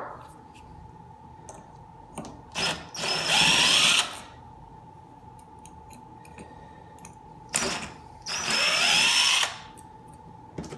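Small cordless power screwdriver running in two short bursts of about a second each, its motor whine rising as it spins up, backing out the Phillips screws inside a porcelain pull-cord lamp holder. Light clicks of handling come between the runs.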